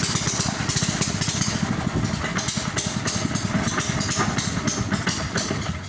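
A small river boat's engine running steadily, a fast chugging, with a hiss over it. The sound falls away at the very end.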